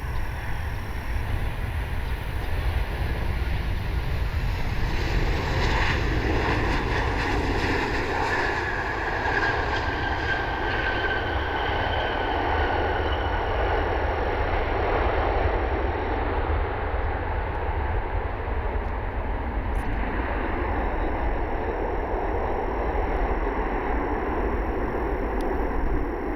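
Boeing 737-800 jetliner's CFM56 turbofan engines on landing approach. The jet rush builds about five seconds in and a whine falls in pitch as the plane passes, followed by a long steady rumble. Wind rumbles on the microphone throughout.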